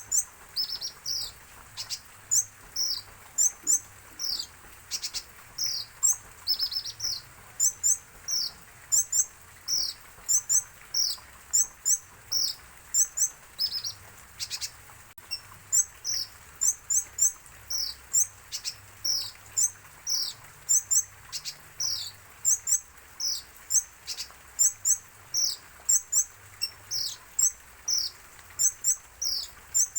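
Kolibri ninja (Van Hasselt's sunbird) chirping without pause: a fast run of short, high notes that each drop in pitch, several a second, with thin higher ticks between them.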